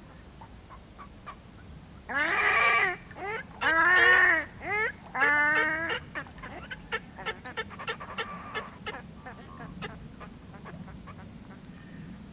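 Whooper swans calling: four loud, trumpeting honks between about two and six seconds in, the third one short, followed by a quick run of shorter, quieter notes.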